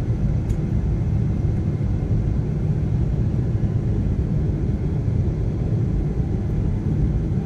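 Steady, loud low rumble of a Boeing 777 airliner during its landing.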